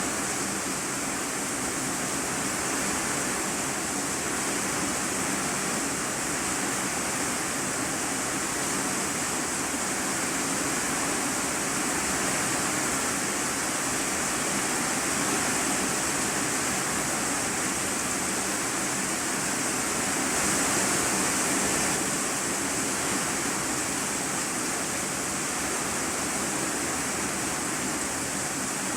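Heavy rain drumming steadily on a corrugated iron-sheet roof, heard from inside the room beneath it. It swells slightly about two-thirds of the way through.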